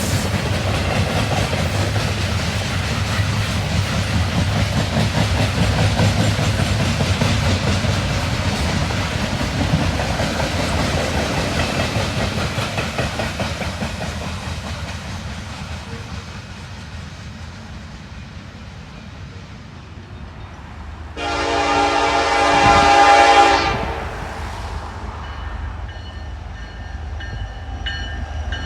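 A train rolling past, its rumble fading away over the first twenty seconds. About twenty-one seconds in, a locomotive's multi-note air horn sounds loudly for about two seconds, followed by fainter horn tones near the end.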